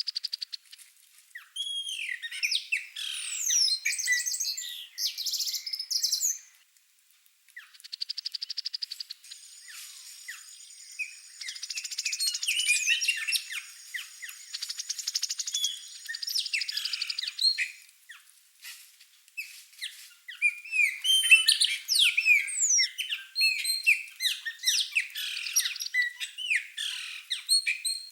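Chopi blackbirds and shiny cowbirds singing and calling: many overlapping short whistles that glide up and down, mixed with chatter and a couple of fast buzzy rattles.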